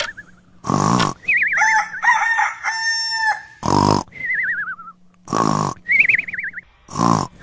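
Short, loud fowl calls repeating every second and a half or so, alternating with warbling bird calls that slide downward in pitch.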